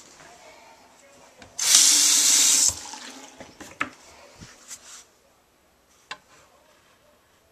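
Kitchen sink faucet turned on and water rushing into the sink for about a second before it is shut off, followed by a few small knocks and clicks.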